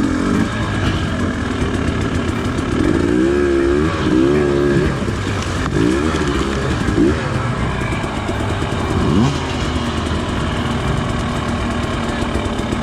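Dirt bike engine running hard over rough ground, its pitch swinging up and down as the throttle is opened and closed, with a quick run of revs a few seconds in and a falling rev near the end.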